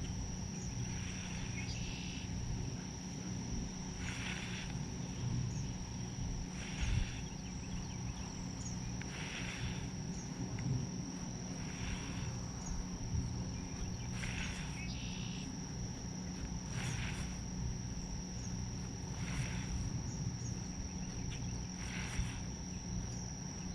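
Outdoor ambience: a steady high-pitched whine with a soft raspy pulse repeating about every two and a half seconds, over a low steady rumble.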